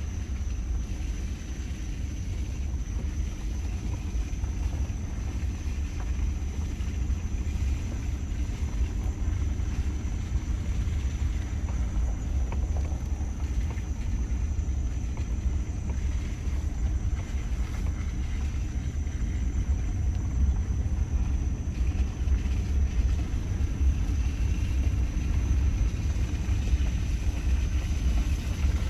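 Wind buffeting the microphone outdoors: a steady, gusting low rumble.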